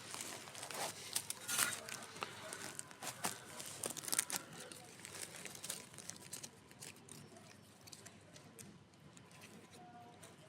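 Wood campfire crackling and popping: many sharp, irregular cracks, thick during the first few seconds and thinning out later.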